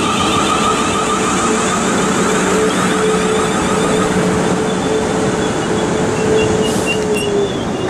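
Electric multiple unit pulling out of the platform, its traction motors giving a steady whine with a rippling higher tone over rolling noise. The whine fades near the end, where a few short high squeals are heard.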